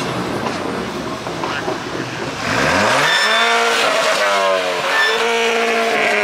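Mk6 Volkswagen Golf's engine rising in revs about two and a half seconds in, then holding steady with a brief dip and rise as the car rolls slowly past.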